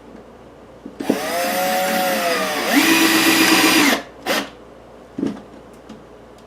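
Power drill driving a wood screw into a wooden wall: a motor whine lasting about three seconds that jumps up in speed and loudness partway through, then stops. A brief second burst of the drill follows, then a single knock.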